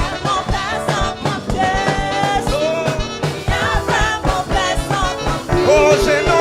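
A choir singing a gospel song with a band: voices over a steady drum beat and bass.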